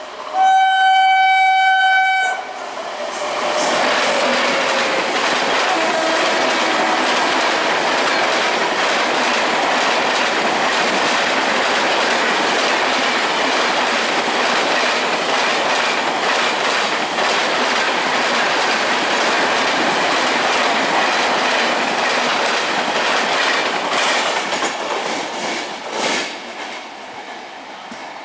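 Indian Railways express train sounding one long, steady horn blast, then running through at speed with a continuous wheel rumble and clickety-clack over the rail joints. The sound fades near the end as the train goes by.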